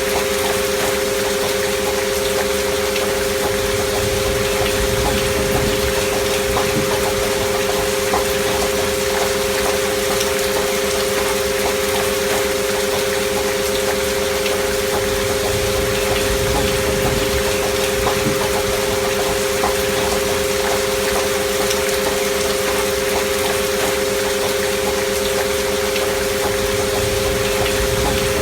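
Steady rain sound with two continuous pure electronic tones held underneath, unchanging: a binaural frequency-healing track.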